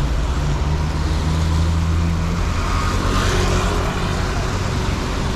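Road traffic on a wet city street: a steady low engine hum, with a vehicle's tyres hissing past about three seconds in.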